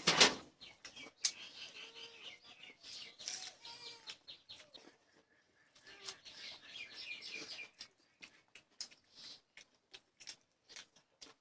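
Birds chirping in short warbling phrases, twice, with scattered sharp clicks throughout and a brief loud rustle at the very start.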